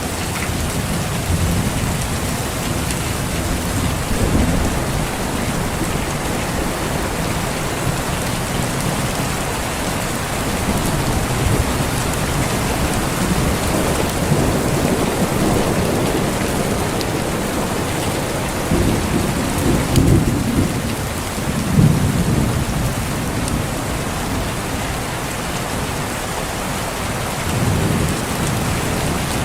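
Steady heavy rain with thunder rumbling low several times, the strongest rolls about two-thirds of the way through.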